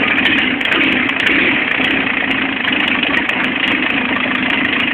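Audi 80 diesel engine idling steadily.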